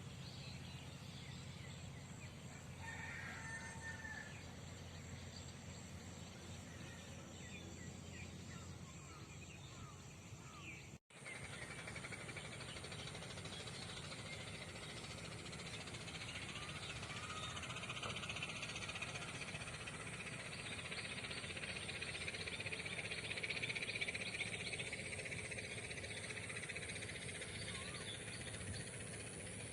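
Outdoor morning birdsong: many birds chirping and calling over a steady background chatter. The sound cuts out briefly about a third of the way through, and the chatter is denser after that.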